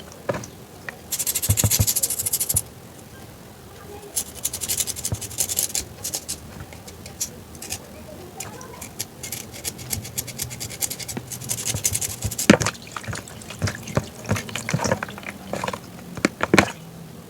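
Bursts of crisp crunching, each lasting a second or so, with scattered sharp clicks and taps between them.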